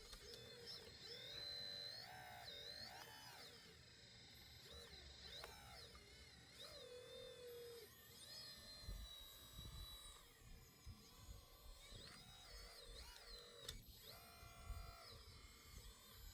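Faint whine of a radio-controlled model machine's small electric motors, several tones rising and falling in pitch as they speed up and slow down, starting and stopping over a low rumble.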